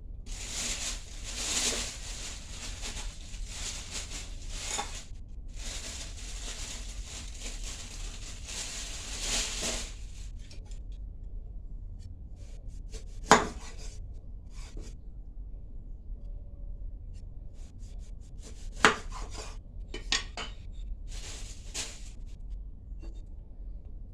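Utensils against dishes: about ten seconds of steady scraping and rubbing, then scattered light clicks with two sharp clinks, one about halfway through and one later.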